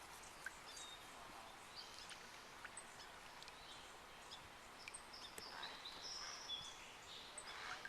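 Faint, scattered chirps of small birds over a quiet background hiss, with a few brief held notes about five to six seconds in.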